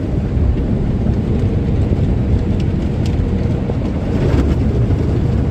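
Automatic car wash's rotating brushes slapping against the car, heard from inside the cabin as a loud, steady, dense rumble.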